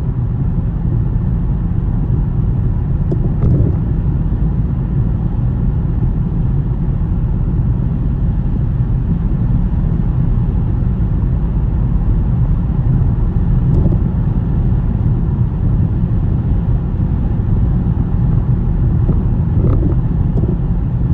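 Steady low rumble of a car driving on a snowy road: road and wind noise, with a few faint clicks.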